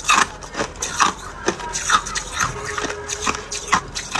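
Ice being crunched and chewed between the teeth, with crisp cracking crunches coming about twice a second.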